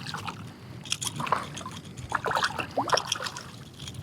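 Water splashing and trickling at the side of a kayak as a hooked redfish is played near the surface, in short irregular bursts.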